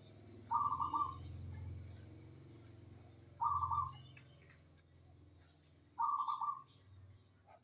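Zebra dove (perkutut) cooing: three short rolling coos, each about half a second long, coming roughly three seconds apart.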